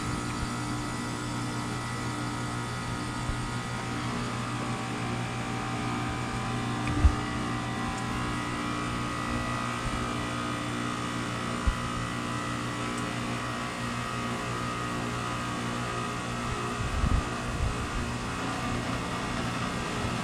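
Carrier Comfort 15 heat pump outdoor unit running through the last part of a defrost cycle: a steady compressor hum with several steady tones above it. A few short low thumps come through, one about seven seconds in, one near twelve seconds and a cluster near the end.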